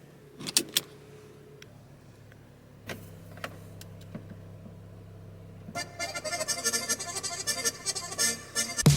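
A few clicks and knocks, then a car's engine idling with a low steady hum. Music rises over it from about two-thirds of the way in.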